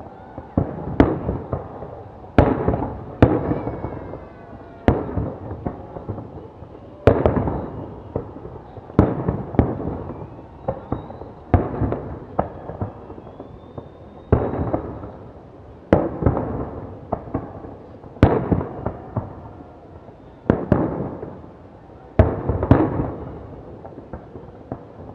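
Fireworks display: aerial shells bursting in sharp bangs about every one to two seconds, each followed by a fading rumble, with a few faint whistles in between.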